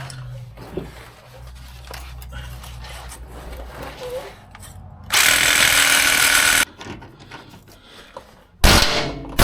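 Power tool working on the truck's frame brackets, run in one loud burst of about a second and a half midway through. Near the end come sharp, loud knocks.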